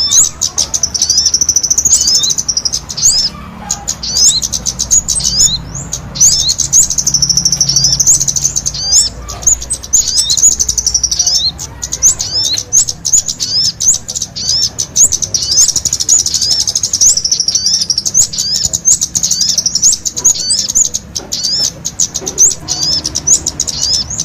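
Kemade and sogon songbirds singing in full voice together: a dense, unbroken stream of high-pitched chirps and quick upswept whistled notes.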